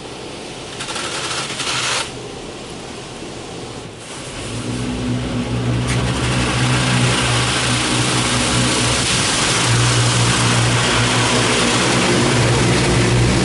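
Mark VII AquaJet GTO-700 touchless car wash at work, heard from inside the car. A brief louder gush of spray comes about a second in. From about four seconds in, a steady motor hum starts and water spray hisses more loudly against the car.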